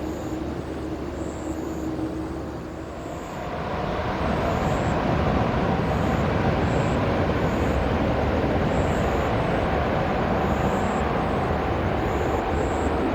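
Jet airliner engines roaring as a plane passes close by. The roar swells about three and a half seconds in, then holds loud and steady with a faint whine.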